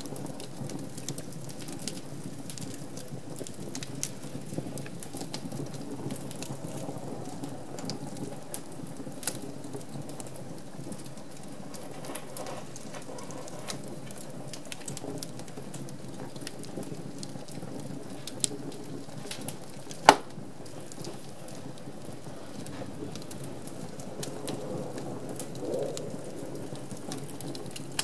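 Wood fire burning in a fireplace: a steady flame hiss with frequent small crackles, and one loud pop about twenty seconds in.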